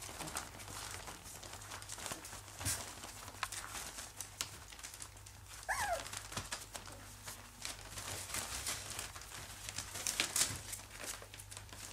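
Young English cocker spaniel puppies moving about, with scattered rustling and small scratchy clicks, and one short falling whimper from a puppy about six seconds in.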